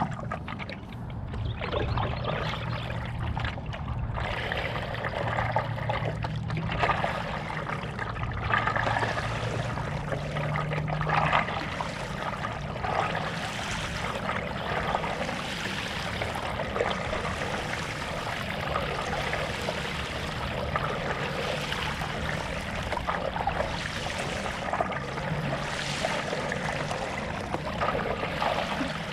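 Stand-up paddle strokes in lake water: the blade dips and pulls at an uneven pace, with splashing and water trickling off the paddle. A faint low steady hum sits underneath.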